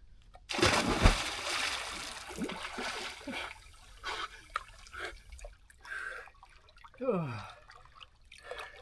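A person plunging into shallow cold water: a loud splash about half a second in, then sloshing and dripping as he moves in it. About seven seconds in he lets out a voiced sound that falls steadily in pitch.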